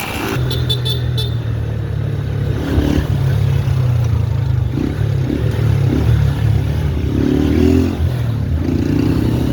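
Motorcycle engine running steadily under way, its note shifting in pitch a few times.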